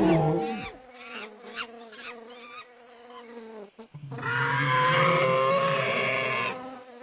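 A loud animal-like sound fading out in the first second, then insect buzzing, with a loud steady buzz from about four seconds in that lasts about two and a half seconds.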